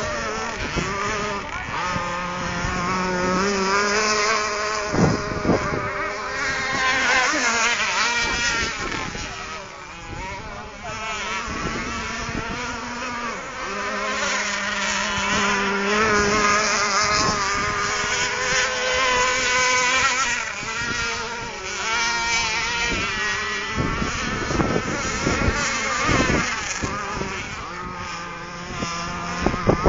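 Three radio-controlled catamaran boats running, their small motors whining at a high pitch that rises and falls as they speed up and ease off.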